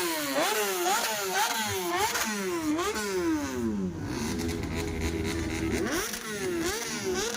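Superbike engine being revved in quick repeated throttle blips, the pitch jumping up and falling back about twice a second, settling to a steady idle midway, then blipped again near the end.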